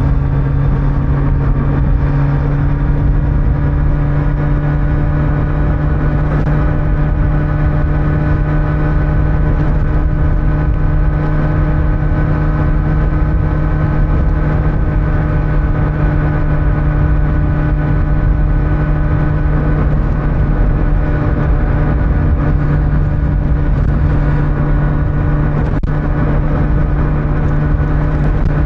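2025 Kawasaki Z900's inline four-cylinder engine with stock exhaust, running at a steady cruising speed. The engine note steps up slightly about three seconds in and then holds steady, over road and wind noise.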